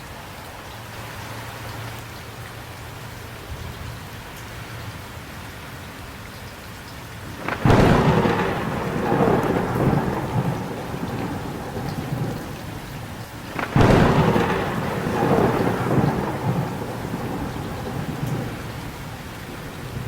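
Steady rain falling, with two close thunderclaps, one a third of the way in and one about two-thirds in. Each begins with a sudden crack and rolls on as rumbling for several seconds.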